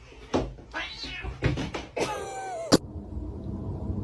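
Domestic cat meowing, one drawn-out meow, amid a few short knocks, with a sharp click just as the meow ends.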